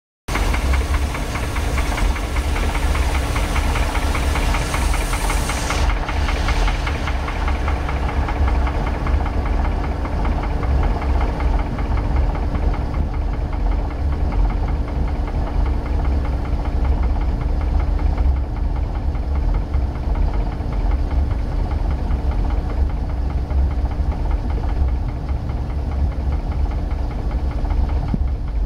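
Boat's 454 big-block V8 running steadily with a rapid, rhythmic engine knock.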